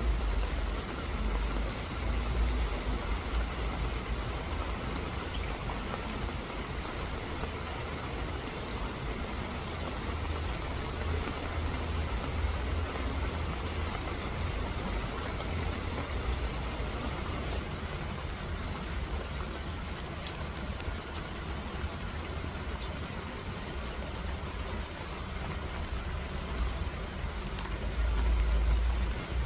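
Steady rain falling, an even hiss of drops, with a low rumble underneath that swells about a second before the end.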